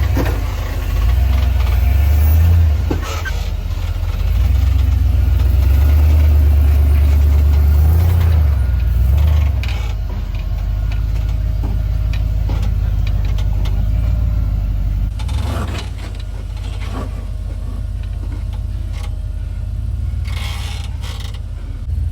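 A rock-crawling 4x4's engine rumbling at low revs, surging twice in the first half as the driver gives it throttle over the rocks, then easing off; a few short knocks sound through it.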